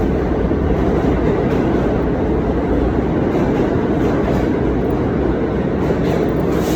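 Subway train running on the rails at the station platform: a loud, steady rumble of wheels and cars.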